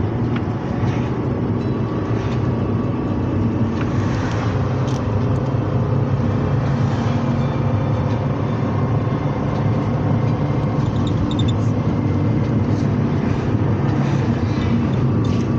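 Mercedes-Benz Sprinter minibus driving, heard from inside the cabin: a steady engine and road rumble with a few faint rattles.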